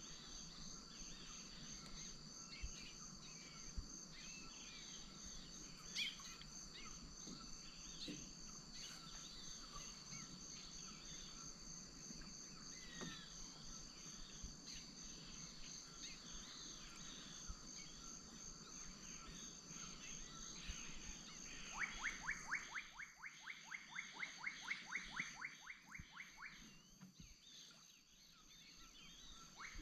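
Amazon wetland ambience: a steady high insect drone, one strand of it pulsing, with scattered bird chirps. Some twenty seconds in, an animal call sounds for about five seconds as a fast run of about twenty sharply falling notes, about four a second.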